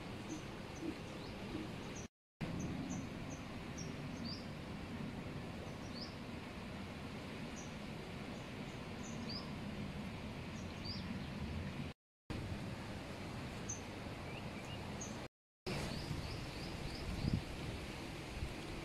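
Small birds chirping repeatedly in short, high calls over a steady outdoor background noise. The sound cuts out briefly three times.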